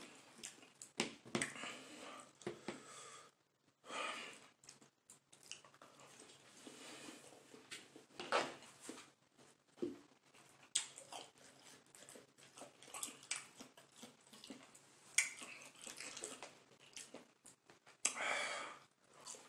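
A man chewing spicy chicken nuggets, with irregular short puffs of breath and mouth noises between bites, the hard breathing of someone eating very hot sauce.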